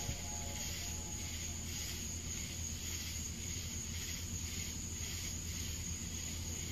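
Steady low hum under a high, evenly pulsing insect chorus, about two pulses a second.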